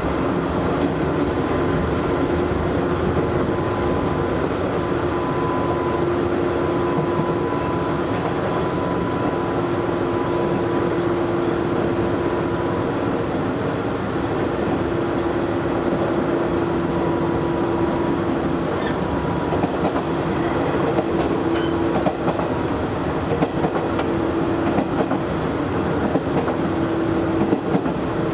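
Cabin running noise of an Izu Hakone Railway Series 3000 resistance-control electric train at speed between stations: a steady rumble of wheels on rail with a steady whine running through it. A few faint rail-joint clicks come in the later part.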